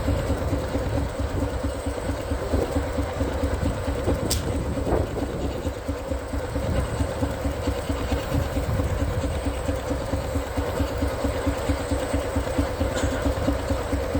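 Baker steam traction engine's exhaust chuffing from the stack in a steady, even beat, about four chuffs a second.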